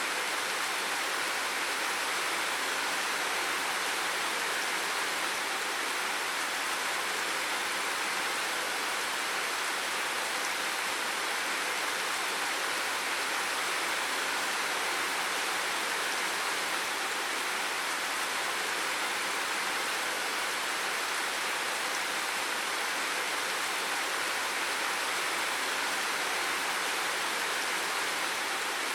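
Steady, unbroken rush of water, an even hiss with no separate drops or other events.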